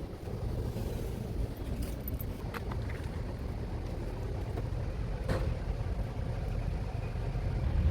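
A steady low rumble of a running vehicle, with a few short, sharp clicks.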